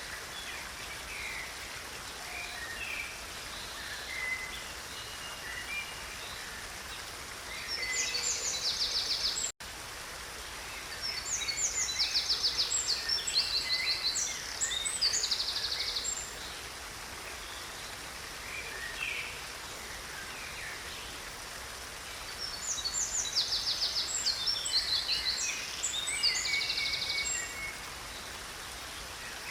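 A stream running steadily, with songbirds singing over it: scattered chirps throughout and three louder bouts of fast trilled song. The sound drops out for an instant about ten seconds in.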